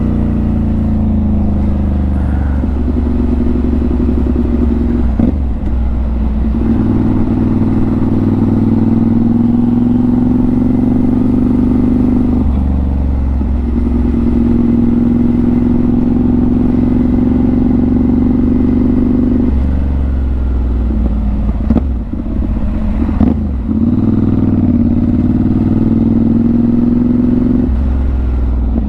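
Motorcycle engine under way, heard from the rider's helmet: its note climbs steadily, dips briefly and climbs again about five times, as the bike accelerates and shifts through changing traffic.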